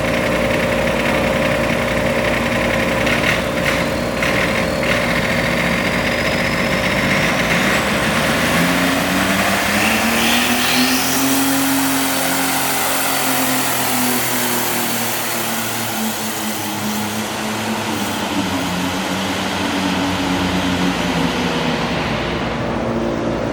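Modified garden tractor engine running hard. Its pitch rises about a third of the way in, holds high, and falls back near the end. A thin high whine climbs in pitch over the first half.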